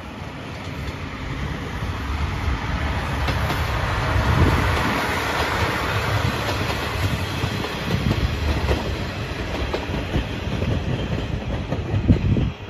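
The Seto Ohashi Anpanman Torokko, a diesel train with an open-air trolley car, passing close by. Its engine runs and its wheels clatter over the rail joints; it grows louder over the first four seconds and stays loud, with a sharp clack near the end.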